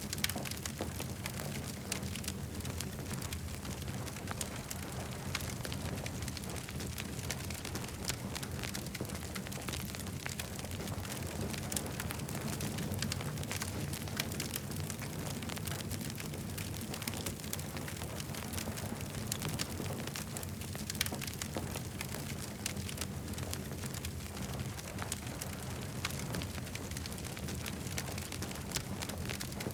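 Campfire burning and crackling: frequent sharp pops and snaps over a steady low rumble.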